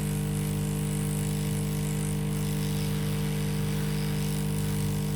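Steady electrical hum with a hiss from a hot air rework station blowing while heating a MOSFET on a motherboard to desolder it.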